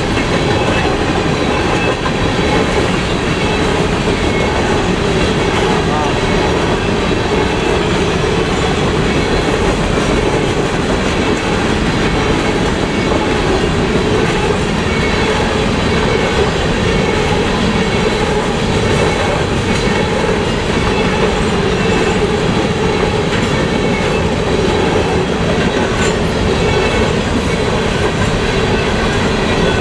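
Freight train rolling past at close range: a steady, loud run of railcar wheels on the rails that holds without a break.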